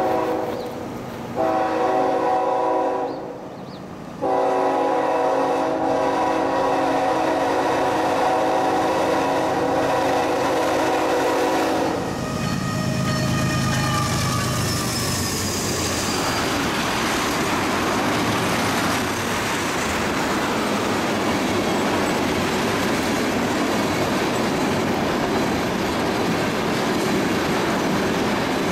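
BNSF diesel freight locomotives sounding a multi-chime air horn in several blasts, the last held for about eight seconds. The locomotives then pass close by with engine rumble and a brief high squeal, followed by a string of tank cars rolling by with steady wheel noise and clickety-clack.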